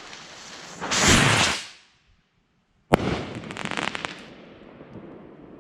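Diablo firework rockets going off: a loud rushing burst lasting under a second, then, after a short break, a sharp bang followed by a second of dense crackling that fades away.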